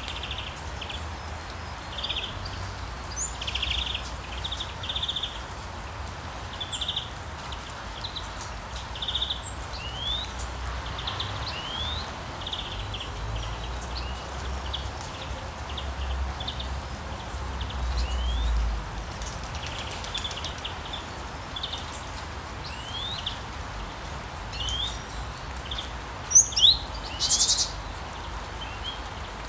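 Rainforest ambience: many birds calling in short trills and quick rising chirps over a steady background hiss. Near the end a few louder, sharper calls stand out.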